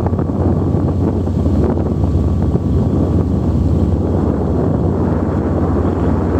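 Sightseeing boat's engine running steadily, a low drone under wind buffeting the microphone and the rush of water.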